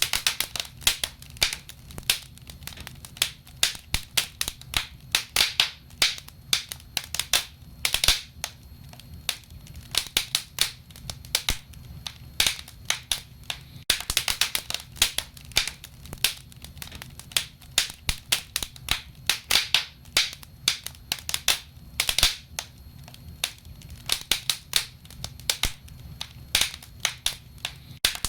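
Wood fire crackling and popping, with dense irregular snaps that come in quick flurries, over a low steady hum.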